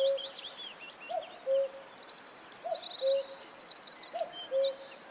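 Forest birdsong: a low two-note hoot repeating about every second and a half, over many quick, high chirps and trills from small birds.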